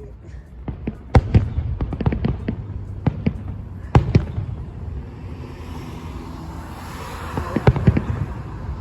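Fireworks going off: a string of sharp bangs and pops, with a dense spell of crackling about seven to eight seconds in.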